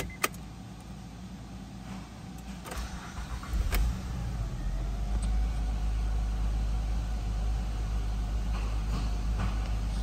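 A 2006 Honda Pilot's 3.5-litre V6 is cranked and catches about three and a half seconds in, then idles steadily.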